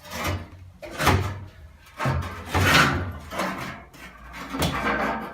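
A run of clunks and scrapes from hands-on work at the car's fuel tank and its connections, about five over a few seconds, the longest and loudest a scrape of about a second near the middle.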